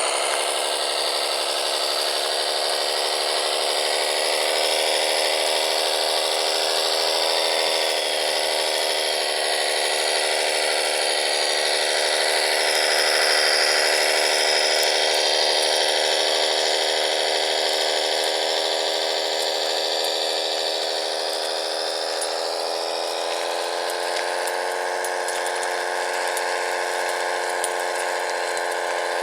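Radio-controlled construction machine models running: a steady electric motor and gear whine that holds on, rising a little in pitch about halfway through and easing off somewhat near the end.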